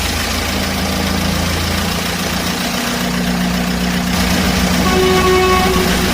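Truck or tractor engine idling steadily with a low hum. About five seconds in, a higher pitched tone joins it, sounding on and off.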